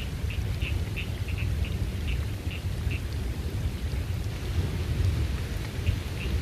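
Steady rain with a low, continuous rumble of thunder underneath. A run of short high chirps, several a second, comes through over the first half and again near the end.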